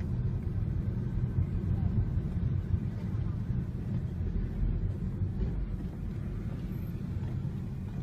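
Steady low rumble of a car on the move, engine and road noise picked up by a dashcam.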